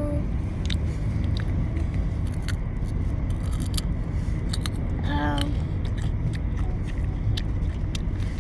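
Scattered sharp clicks over a steady low rumble, with a child's brief vocal sound about five seconds in.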